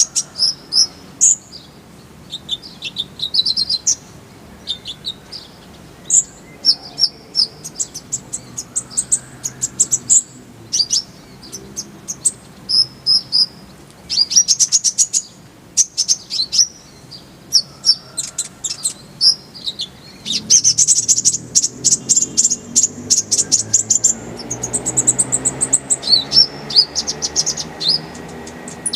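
Kolibri ninja, a small sunbird, singing: fast, high, twittering chirps and short trills, repeated phrase after phrase with brief gaps, densest from about two-thirds of the way in.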